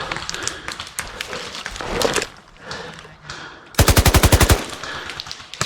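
Airsoft gun firing a short full-auto burst of rapid, evenly spaced shots, about eighteen a second, starting about four seconds in. Scattered single pops come before it, and another burst starts right at the end.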